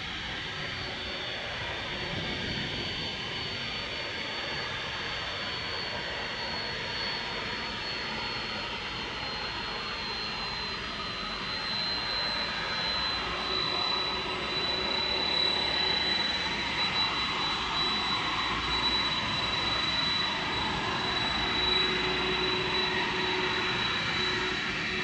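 Boeing 767-300 freighter's twin jet engines running at takeoff thrust: a steady jet roar with a high whine that drops slightly in pitch about halfway through, growing louder in the second half.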